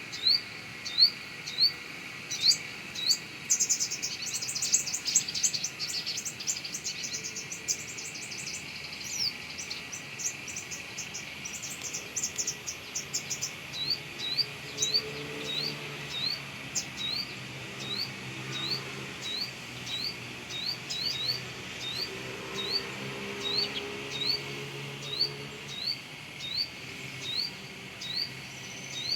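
Sunbird calling: a steady series of short rising chirps, a little over one a second, with a faster, busier run of twittering in the first half. A constant insect-like hiss runs underneath.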